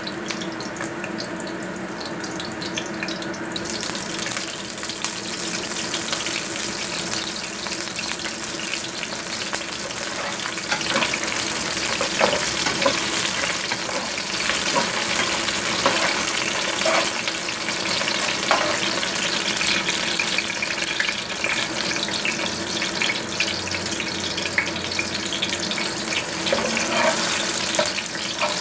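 Ginger, shallots and spring onion frying in hot oil: a steady, dense sizzle that grows brighter about three seconds in, with sharp pops now and then.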